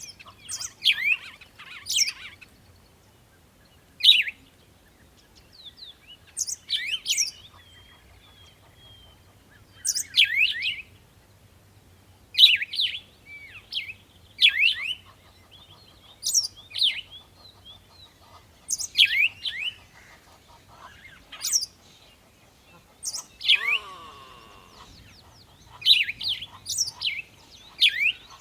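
Songbirds chirping in short bursts of quick, high notes every second or two, with one lower call about three-quarters of the way through.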